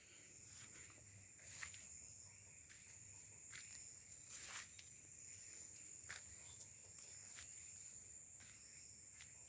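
Faint footsteps and brushing through undergrowth, a few soft steps, over a steady high-pitched insect-like drone.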